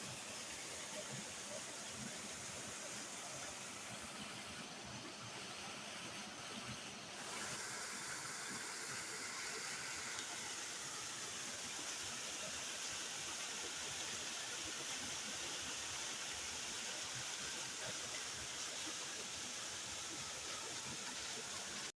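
Waterfall: a steady rush of falling water, a little louder and brighter from about seven seconds in.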